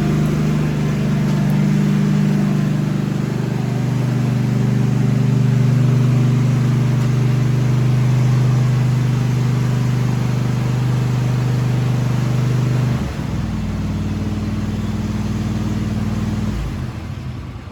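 Petrol lawnmower engine running steadily at high speed. About thirteen seconds in its note drops and changes, and near the end the sound dies away.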